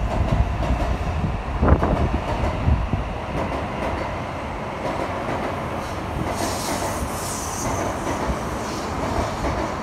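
Tokaido Shinkansen N700-series electric train pulling out of the station, its cars rolling past with a steady rumble. There is a sharp clunk about two seconds in and a brief high hiss a little past the middle as the last car goes by.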